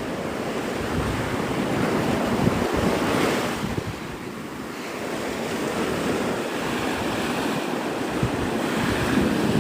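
Surf breaking and washing up the beach, swelling to a peak about three seconds in, easing off, then building again, with wind buffeting the microphone.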